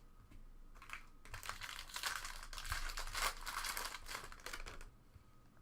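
Crinkling and rustling of a trading-card pack wrapper and cards being handled. It starts about a second in and dies away near the end.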